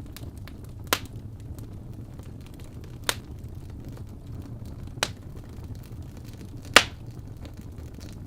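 Wood fire burning in a fireplace: a steady low rumble with faint small crackles, and four sharp pops of the burning logs about two seconds apart, the last one the loudest.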